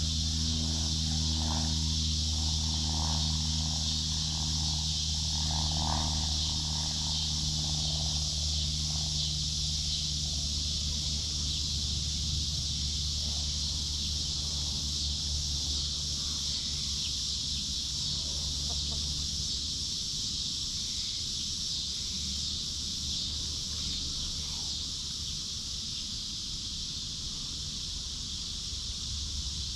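Hens clucking softly while foraging, most in the first few seconds, over a steady high insect drone. A low motor hum runs underneath and fades out about two-thirds of the way through.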